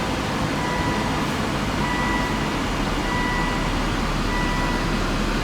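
2009 Volvo S60's 2.5-litre turbocharged five-cylinder idling steadily, with a short electronic warning beep repeating about every 1.2 seconds over it.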